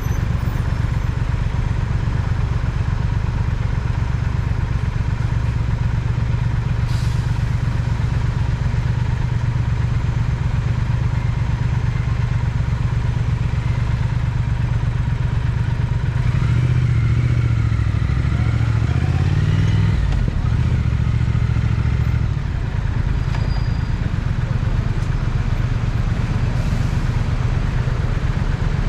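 Triumph Speed Twin's parallel-twin engine running at a low, steady idle-like rumble. About sixteen seconds in the engine note climbs as the bike accelerates, then eases off a few seconds later.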